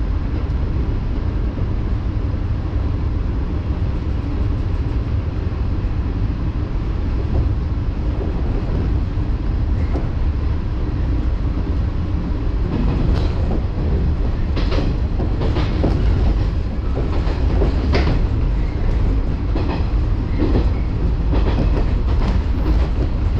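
A 113 series electric train running, heard from just behind the driver's cab: a steady low rumble of wheels on rail. About halfway through, a run of sharp, irregular clicks begins as the wheels pass over track joints.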